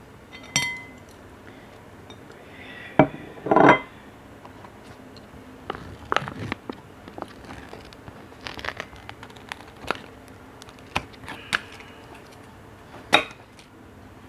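Dishes and utensils clinking and knocking. There is a single ringing clink about half a second in and a louder clatter around three to four seconds in, then scattered light taps and clicks, with one sharp clink near the end.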